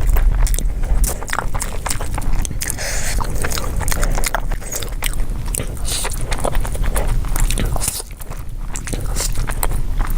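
Close-miked eating sounds: someone biting and chewing food, with many quick wet mouth clicks throughout.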